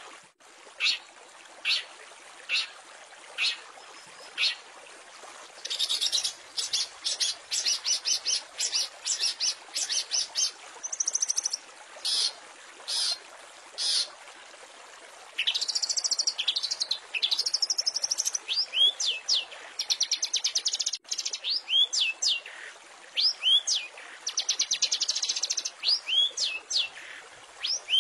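Long-tailed shrike (cendet) singing. It starts with single sharp notes about one a second, then breaks into fast buzzy trills and chatter, and later into a run of looping, down-slurred whistles, all over a steady hiss.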